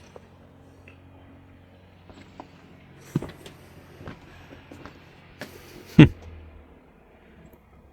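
A steady low hum with scattered faint clicks and knocks; a sharp knock a little past three seconds in, and the loudest, a single thump, about six seconds in.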